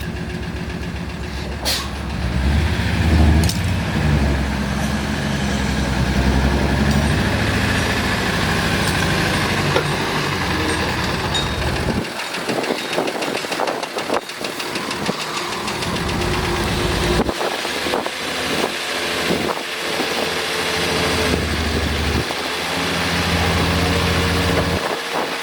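Heavy work vehicle's engine running, its low rumble strong at first, dropping away and breaking up around the middle, then coming back strongly near the end.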